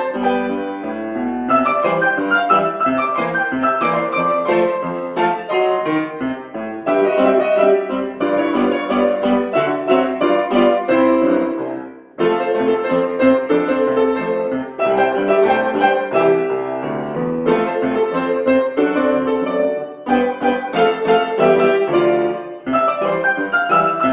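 Piano playing a classical piece with quick runs of notes, with a brief break in the phrase about halfway through.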